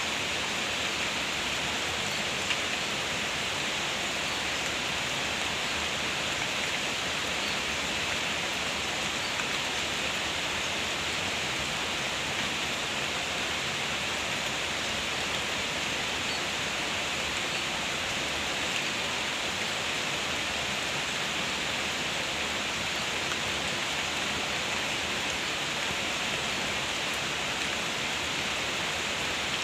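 Steady rain falling, a constant even hiss of a downpour.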